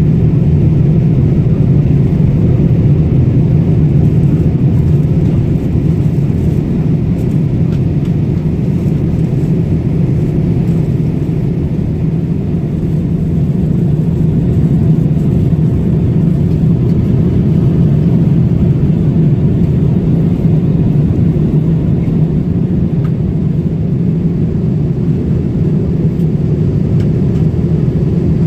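Airliner cabin noise in flight: a steady, loud low drone of engines and airflow that holds level throughout.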